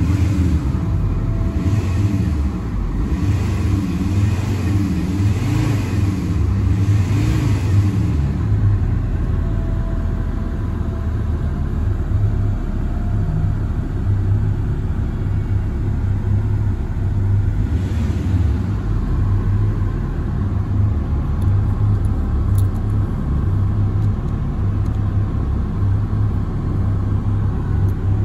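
Alfa Romeo 166 2.4 JTDm five-cylinder common-rail diesel idling while warming up, a steady low rumble. Through the first eight seconds or so it pulses slightly about once a second, then runs evenly.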